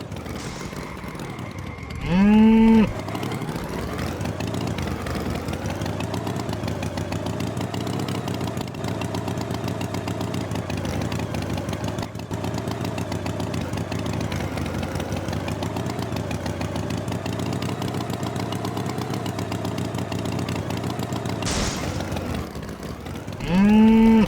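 A cow moos twice, one short, loud call about two seconds in and another near the end. Between the two moos an engine runs steadily.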